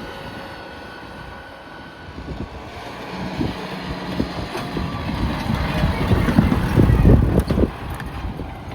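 Tractor engine running, growing louder up to about seven seconds in and then easing off, with a low rumble.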